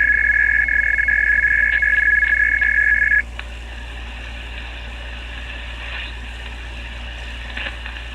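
A loud, steady two-pitch electronic tone that holds for about three seconds and then cuts off sharply, leaving a low steady hum.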